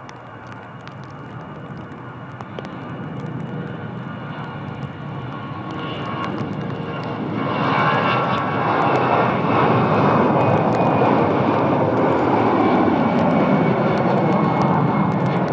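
Jet airliner's engines, their roar growing steadily louder over the first eight seconds, then holding loud with a faint whine over it as the plane passes close.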